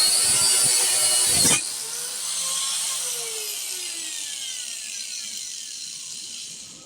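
Power grinder running with a high whine, then cut off about a second and a half in, after which the wheel spins down with a falling, fading tone.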